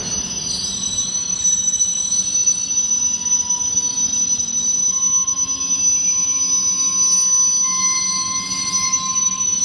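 Freight train of covered hopper cars rolling slowly past while braking to a stop, its wheels and brakes giving a steady high-pitched squeal over the low rumble. Further squealing tones join in about a third of the way through and again near the end.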